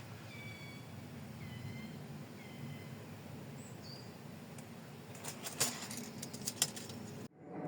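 Small birds chirping in short whistled notes over a low steady background, with a cluster of sharp knocks about five to six and a half seconds in. The sound cuts off abruptly near the end.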